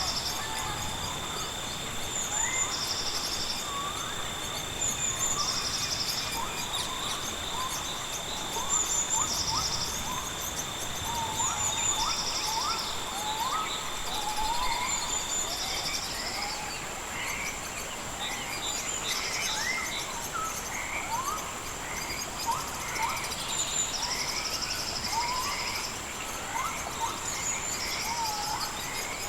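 Rainforest ambience: insects keep up a steady high drone, with a second lower drone that stops about halfway through. Short pulsing trills come every few seconds, over many quick rising chirps from birds or frogs.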